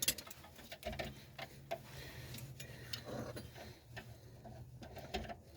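Light, scattered metallic clicks and ticks of rear drum brake hardware being handled and fitted by hand, over a steady low hum.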